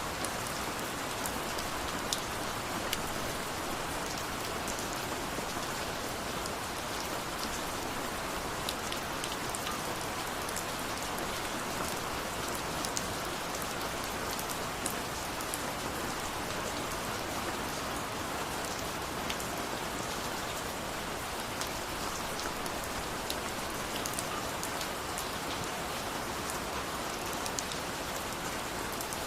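Steady rain falling, an even hiss with many individual drops pattering through it.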